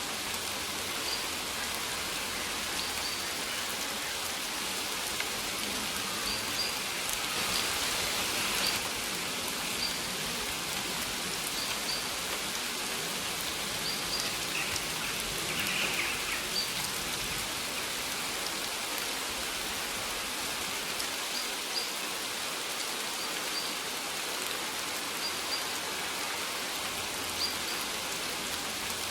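Steady rain falling, with short bird chirps repeating every second or two.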